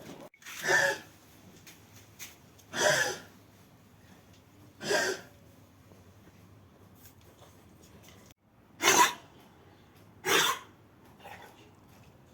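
Hound coughing in five short, harsh bursts a couple of seconds apart, a sign of kennel cough.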